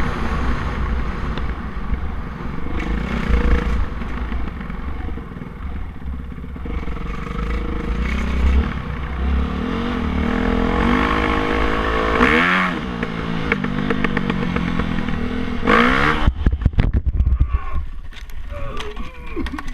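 Dirt bike engine revving and accelerating through the gears, its pitch climbing, with wind buffeting the microphone. About sixteen seconds in there is a loud rush, then a run of irregular clattering and scraping knocks as the engine sound stops: the bike going down in a wheelie crash.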